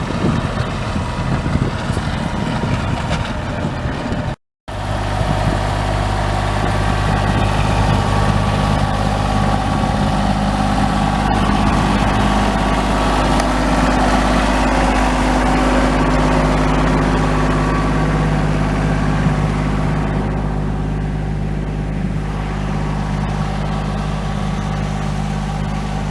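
A motor vehicle's engine running steadily at an even speed, after a rougher, noisier stretch that cuts off about four seconds in.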